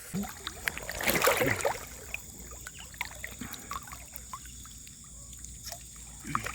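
Water splashing and dripping as a wet fishing net is hauled out of a river. There is a burst of splashing about a second in, then scattered drips and small knocks.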